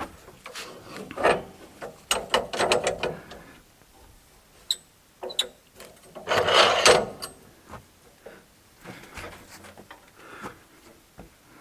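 Wooden and metal handling noises on a portable sawmill as the log is being readied to rotate: scattered clicks and knocks, with the longest and loudest scraping rub about six seconds in.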